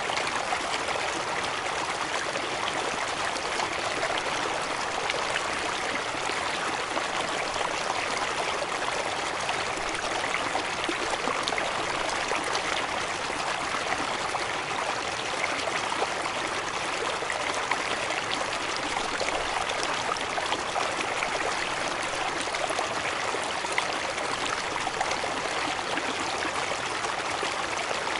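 River water cascading over rocks: a steady, hissy rush of splashing water with little deep rumble and no let-up.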